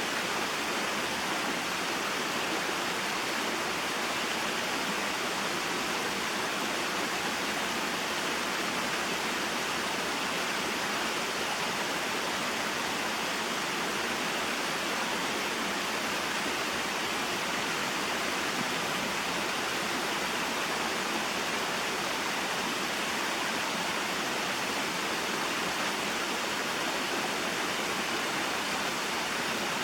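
Small mountain waterfall and stream: water falling and running over rocks in a steady, unbroken rush.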